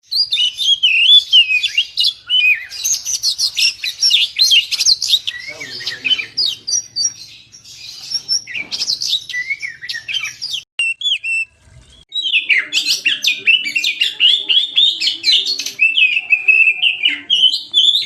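Oriental magpie-robin (kacer) in full song: a fast, varied run of loud whistles and chirps. The song breaks off for about a second near the middle, then starts again.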